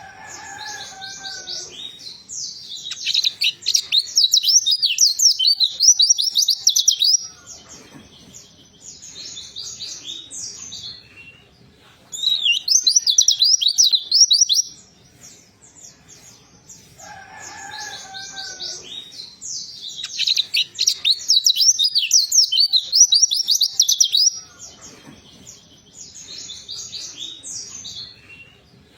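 White-eye (pleci) singing: fast, high twittering song bouts of a few seconds each, three times, with softer chips in between. Twice a lower, falling whistle sounds just before a bout.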